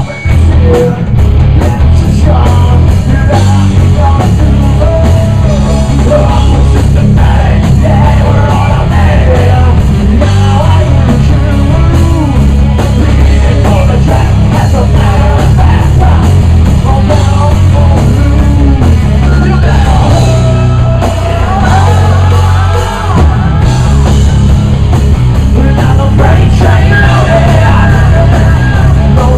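Live rock band playing loud, with heavy drums and bass and sung vocals.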